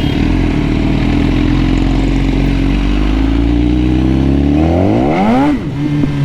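BMW superbike engine running steadily, then revved hard about four seconds in, its pitch rising steeply before dropping back near the end.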